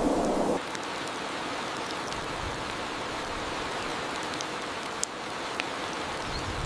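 Steady hiss of water, in the manner of rain or running water, with a few faint sharp drips or ticks. A louder low rushing noise cuts off abruptly about half a second in.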